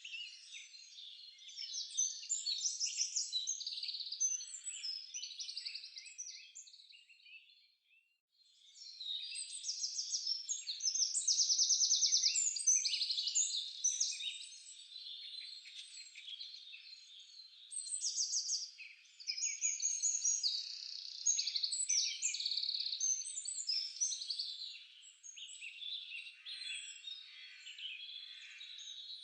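Several songbirds singing at once in a dense chorus of quick, overlapping trills and chirps, pausing briefly about eight seconds in.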